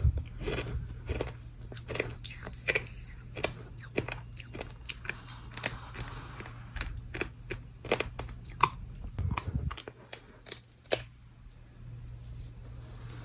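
Dry packed sand crunching and crumbling as it is broken up with a straw spoon close to the microphone: many sharp, irregular crunches that thin out over the last few seconds.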